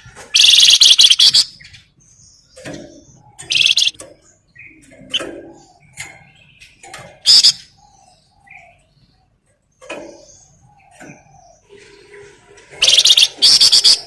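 Flamboyan songbird singing in loud, dense, chattering bursts, four times: a long one near the start, two short ones in the middle and another long one near the end. Quieter short chirps and notes fill the gaps between them.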